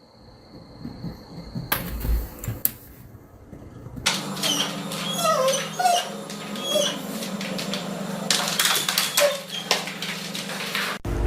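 A pet animal's short, high calls that rise and fall, coming repeatedly over a steady low hum from about four seconds in. Before that it is quiet apart from a high steady tone and a few clicks.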